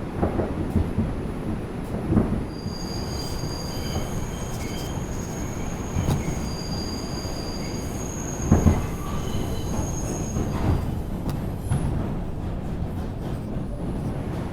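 R142 subway train running along the track, with a steady low rumble and a few heavy knocks from the wheels. High-pitched wheel squeal comes and goes through the middle of the run.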